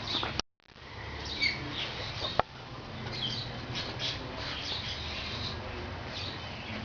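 Birds chirping in the background: scattered short, high chirps over a low background murmur, with a single sharp click a couple of seconds in.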